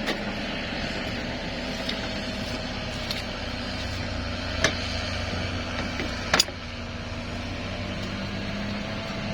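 A motor vehicle engine running steadily, with a handful of sharp clicks or knocks over it, the loudest a quick double knock a little past six seconds in.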